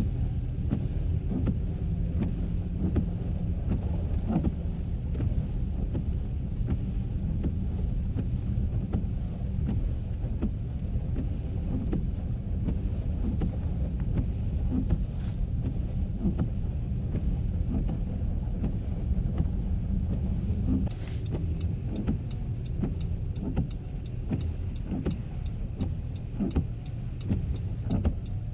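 Car driving: a steady low rumble of engine and road noise, with many small ticks and knocks over it. The rumble eases a little about two-thirds of the way through.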